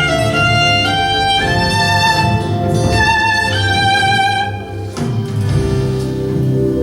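Violin playing a slow melody of held, stepping notes over a low sustained backing. About five seconds in the melody stops and the accompaniment changes to other held tones.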